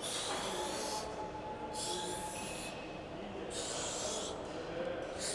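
A man's hard, hissing exhalations, three of them about a second and a half apart, from the effort of working through dip reps.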